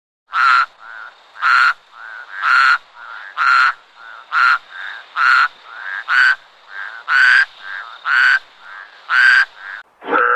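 A frog croaking in a steady rhythm: about one loud croak a second, with a softer croak between each.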